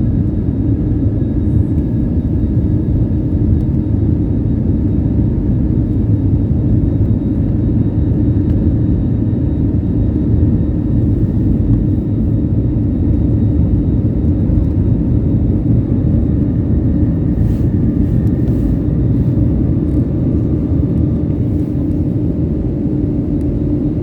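Steady low rumble of jet engines and airflow heard inside the cabin of an Airbus A320 airliner in flight.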